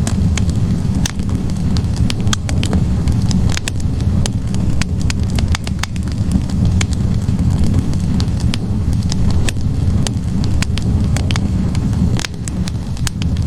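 Wood logs burning in a fireplace: a steady low rush of flames with frequent, irregular sharp crackles and pops from the wood.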